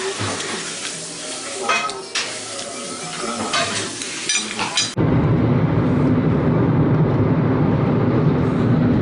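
Kitchen clean-up: a hiss of running water with scattered clinks and clicks of dishes. About five seconds in it cuts suddenly to the steady low rumble of a car cabin on the move.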